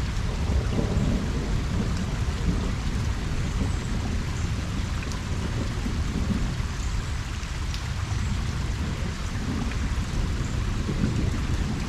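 Steady rain falling on a pond's surface, with a low rumble of distant thunder underneath and a few scattered drop ticks.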